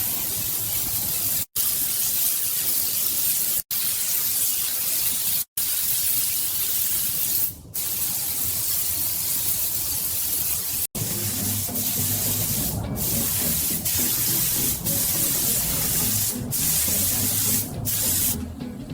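Steady hiss of a spray gun spraying, cut into several short takes; from about eleven seconds in a low hum runs under the spray.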